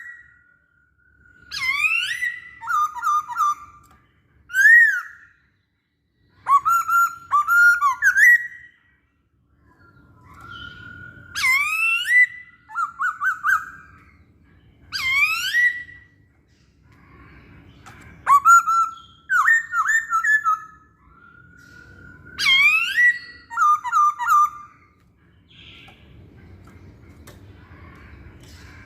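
Poksay hongkong laughingthrush singing: loud phrases of clear whistled notes that slide up and down, repeated every few seconds with short pauses between them.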